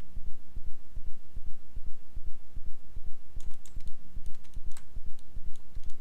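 Computer keyboard and mouse clicks, a quick scattered run of them starting about halfway in, over a steady low throbbing hum that pulses about three times a second.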